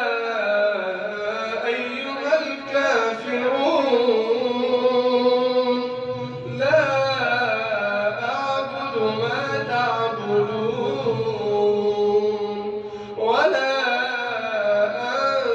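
A man's voice reciting the Quran in slow, melodic tajwid chant, with each phrase long drawn out and bending in pitch. A new phrase begins about seven seconds in and another about thirteen seconds in.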